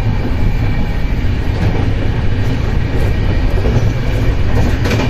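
Loud, steady rumble of a train running at speed, wheels on rails, heard from inside a passenger coach as another train passes close alongside.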